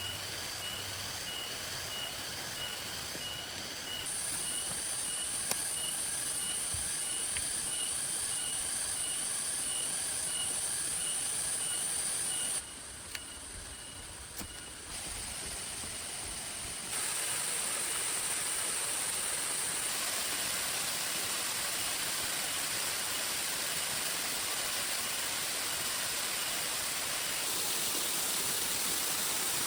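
Steady heavy rain, an even hiss that jumps abruptly up or down in level several times. Through the first two-thirds a faint, high, short call repeats evenly about twice a second.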